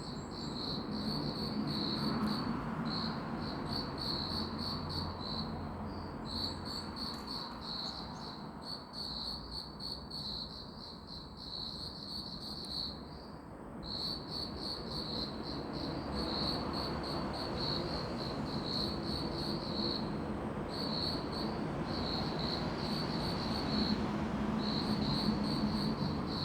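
Crickets chirping: rapid trains of pulses at one high pitch, broken by short pauses, over a steady low background noise.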